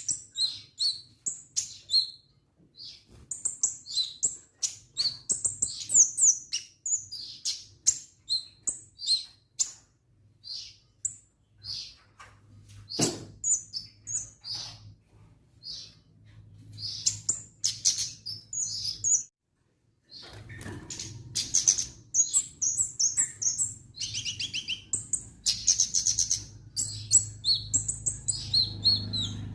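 Kemade songbird singing vigorously: a rapid run of high chirps, whistles and trills, broken by a short gap about two-thirds of the way in. A steady low hum sits under the second half.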